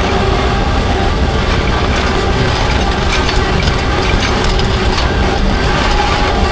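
Engine of a small piece of earthmoving equipment running steadily, with dense crunching and crackling of asphalt millings being loaded or driven over.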